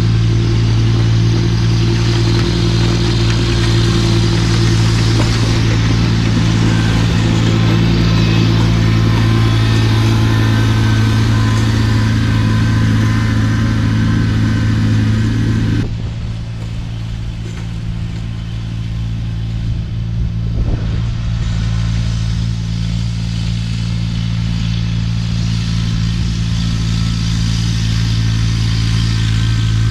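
Tractor engine running steadily at working speed while it drives a snowblower, with the whir and rush of the blower over it. About halfway through the sound drops a little and thins out, then slowly builds back.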